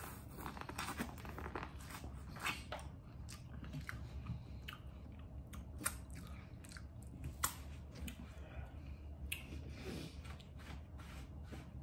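A person biting and chewing boiled corn on the cob coated in sauce, with many short, sharp clicks from the teeth and kernels.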